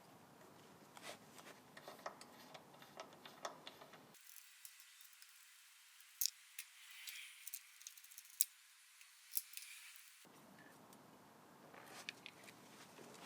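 Quiet, scattered light clicks and taps of small hard objects being handled, with no steady torch hiss. In the middle stretch the low end drops out and only thin, high clicks remain.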